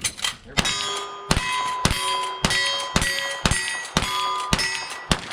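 A steady string of about ten gunshots, roughly two a second, each followed by the ring of a struck steel target, as a cowboy action shooting stage is run against the clock.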